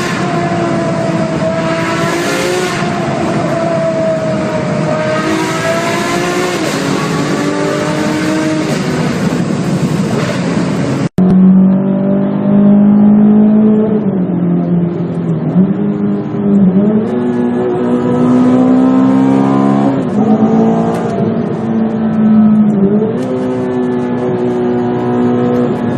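Supercar engine sounds in a tunnel: one car's engine note holds and wavers, then after a sudden cut about 11 seconds in, a louder engine revs up and drops in pitch several times, like gear changes under acceleration.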